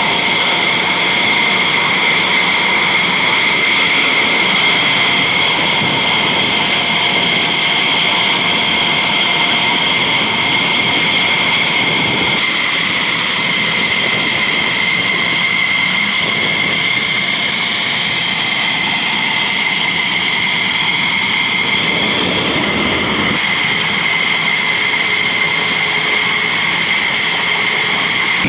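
Military jet engines running at a steady speed, a loud, even, high-pitched turbine whine with several tones held level throughout.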